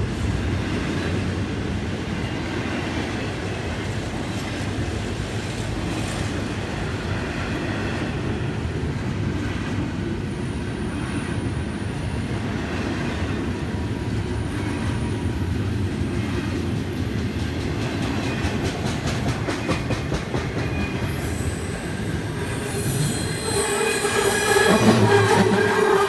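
Freight cars of a long train rolling past with a steady rumble and clatter. From about three-quarters of the way through, a high metallic squeal from the running gear builds up and is loudest near the end; the railfan takes it for a squeaky brake or wheel.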